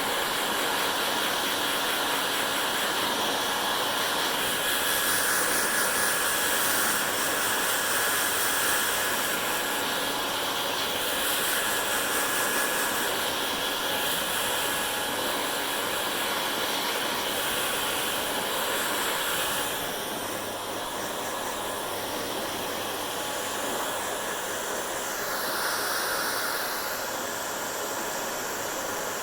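Hair dryer blowing steadily while drying hair, its hiss shifting in tone now and then as it is moved about, and a little quieter from about two-thirds of the way in.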